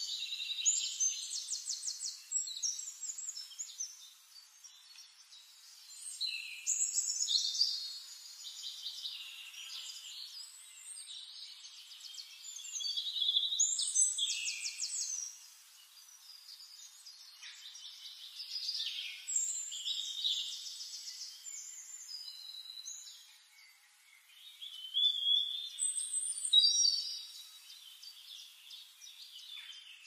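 Several songbirds singing over one another in a forest, with fast trills and short chirps that come in bursts every few seconds.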